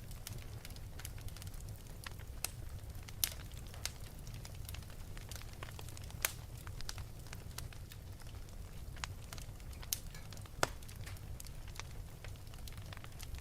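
A fire burning in an open fireplace, crackling steadily with scattered small snaps and a few louder pops, over a low steady rumble.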